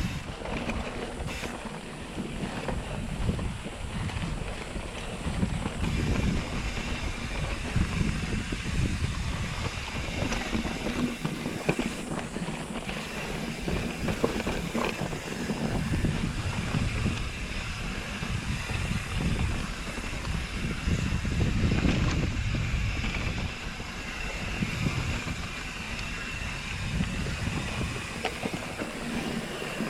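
Wind buffeting the microphone over the rumble of mountain bike tyres rolling on a dirt trail, with scattered clicks and rattles.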